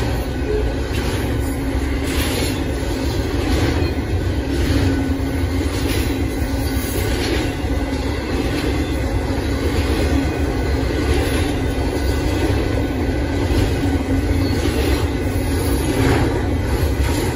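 Union Pacific intermodal freight train's container cars rolling past, a steady loud rumble of steel wheels on rail with scattered clacks.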